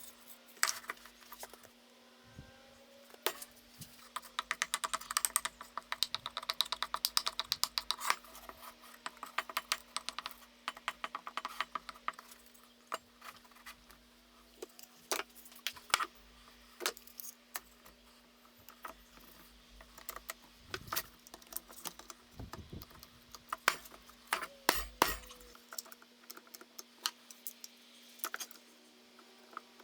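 Light clicking and clattering of small hard objects being handled, with a dense run of rapid clicks from about 4 to 12 seconds and scattered single clicks after that, over a faint steady hum.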